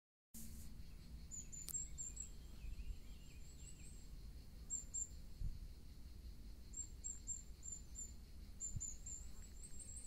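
Small birds chirping in the trees: runs of short, very high chirps, several in quick succession, coming in four bouts. Fainter, lower twittering sounds in the first few seconds. A faint low rumble runs underneath.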